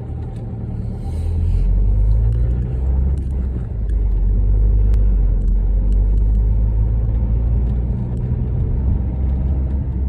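A car being driven, heard from inside the cabin: a steady low rumble of engine and road noise, growing louder about a second and a half in, with storm wind buffeting the car and scattered faint ticks.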